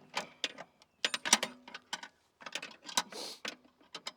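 Irregular metallic clicks and clinks of hand wrenches on steel bolt heads as loose bolts on a mini excavator's seat plate are turned out, with a short scrape about three seconds in.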